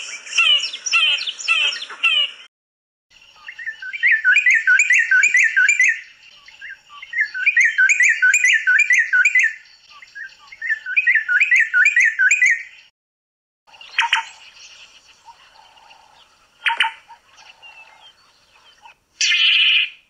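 Recorded calls of southern African birds, one recording after another. A call repeated about twice a second ends about two seconds in. After a short gap, a different bird calls in three bursts of rapid, quickly repeated notes. Over the last few seconds there are a few separate sharp calls, the last short and loud.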